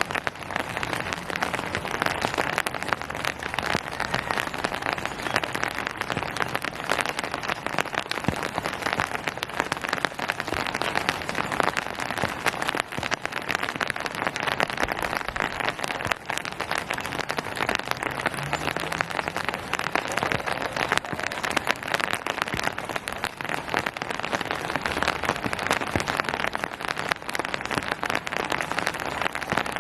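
Steady rain falling on a surface: a dense, even patter of many individual drops.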